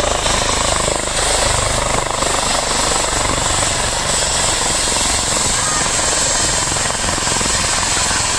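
Helicopter running close by: loud, steady rotor and engine noise with a constant high whine on top.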